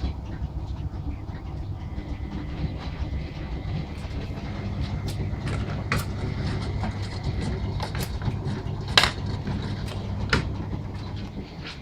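Washing machine running: a steady low hum with a few sharp clicks or knocks, the loudest about three quarters of the way through.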